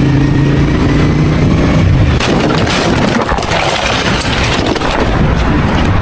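Motorcycle engine running steadily under loud wind and road noise. About two seconds in, the steady engine note gives way to a rougher, noisier rush.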